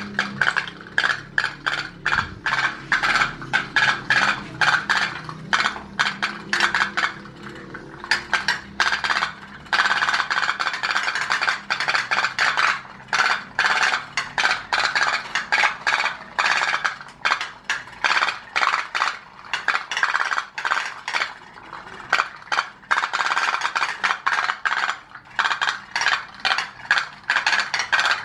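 Tin pop-pop boat engines running: a fast, continuous rattle of clicks as the flash-steam boilers pulse, with brief lulls about 7 and 21 seconds in.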